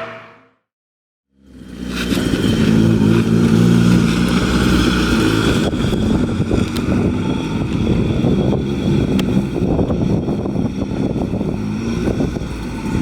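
Turbocharged Nissan QG18 inline-four engine in a Datsun 910 Bluebird running at a fairly steady speed. It starts about a second and a half in.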